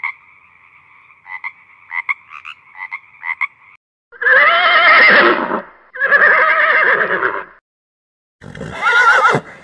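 Frog croaking in short bursts over a steady chorus of frogs, cutting off after a few seconds. Then a horse whinnies loudly twice, each call about a second and a half long and wavering in pitch, and a third whinny starts near the end.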